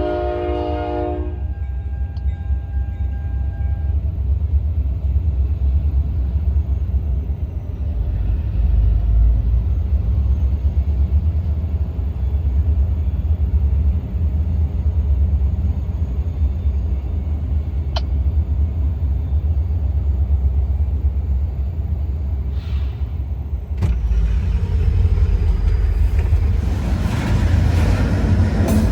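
A diesel locomotive's horn blast cuts off about a second in, followed by a steady low rumble that grows louder near the end.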